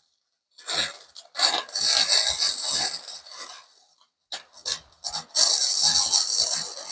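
Flux-core welding arc crackling on thin steel exhaust pipe in a series of bursts: a short one, a run of about two seconds, three very short taps, then another run of about two seconds.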